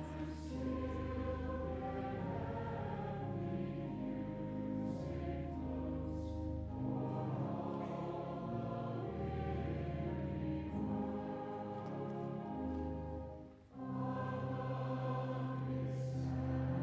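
Choir singing slow, sustained chords over deep held bass notes, pausing briefly about thirteen and a half seconds in before the next phrase.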